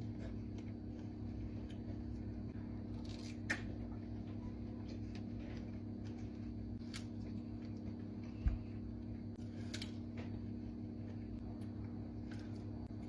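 Eating sounds from a fruit mukbang: a few scattered soft clicks and crackles of biting and chewing, and one low thump a little past halfway, over a steady low hum.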